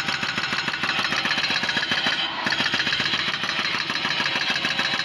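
Heavy machinery engine running with a fast, even pulse of about nine beats a second, dipping briefly a little past two seconds in.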